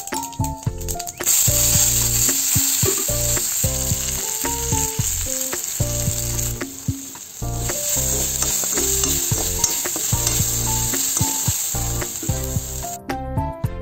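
Chopped onions, garlic, green chillies and curry leaves sizzling as they fry in hot oil in a pan. The sizzle starts about a second in, dips briefly around the middle and stops just before the end. Light background music plays throughout.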